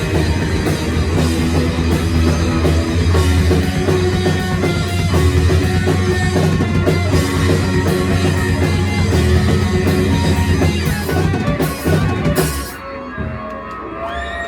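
A live rock band, with drum kit, bass and electric guitars, playing loudly at full tilt, then stopping suddenly near the end and leaving a few guitar notes ringing.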